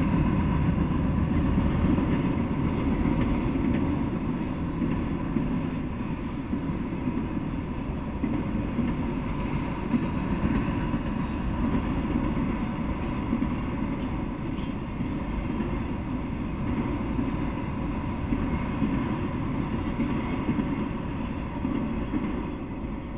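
Freight train of autorack cars rolling past, a steady rumble of steel wheels on the rails. It begins to fade right at the end as the last car goes by.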